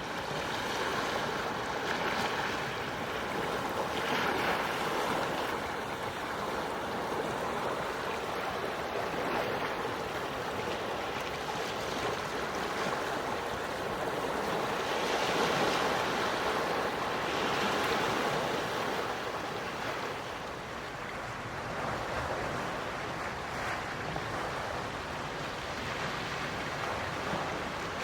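Gentle sea waves washing onto a shore, swelling and easing several times.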